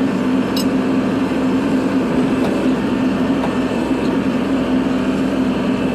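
Kubota diesel tractor engine running steadily under a plow, with a brief high-pitched squeak about half a second in.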